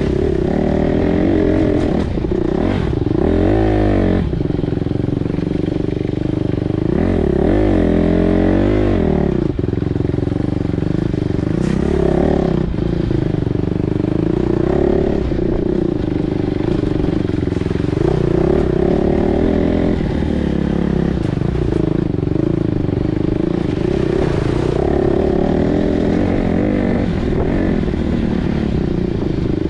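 Single-cylinder four-stroke dirt bike engine being ridden, its revs rising and falling again and again as the throttle opens and closes, with hard rev sweeps a few seconds in and again about eight seconds in.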